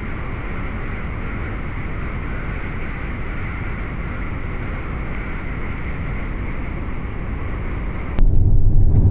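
Steady rushing noise of a moving vehicle, road and wind noise, that switches abruptly to a louder, heavier low rumble about eight seconds in.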